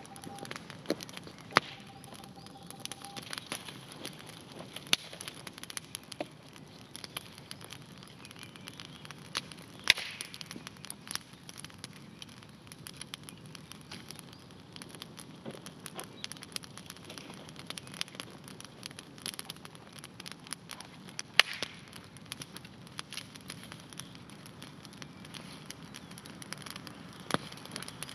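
Wood campfire crackling, with many small snaps and a few sharp, louder pops spread through.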